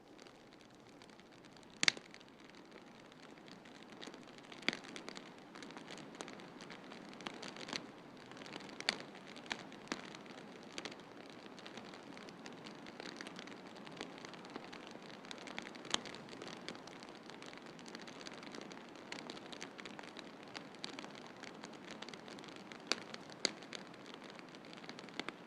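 Wood fire crackling in a fireplace: irregular sharp pops and snaps, the loudest about two seconds in, over a steady hiss.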